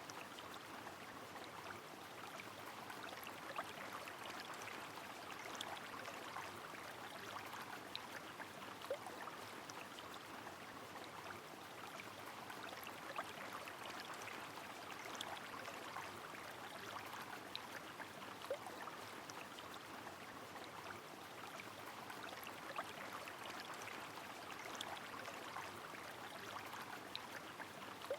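River water flowing in a steady, faint rush, with rain falling as scattered small drips and taps over it.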